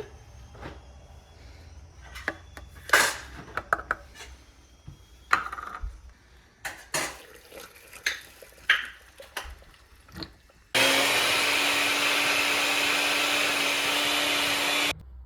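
A run of scattered clicks and knocks of kitchen handling, then an electric blender running steadily for about four seconds and cutting off suddenly.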